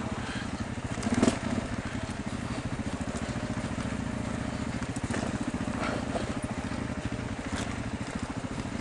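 Motorcycle engine running steadily at low revs with an even low pulse, with a few short knocks scattered through it.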